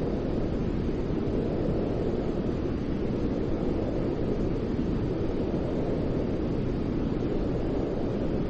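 Steady low-pitched white noise, a deep even rush with no rhythm or change, its energy weighted toward the low end like brown noise.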